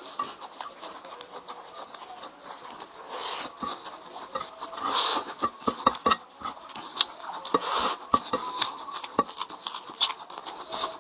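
A person chewing food close to the microphone, with many quick, irregular wet clicks and smacks of the mouth.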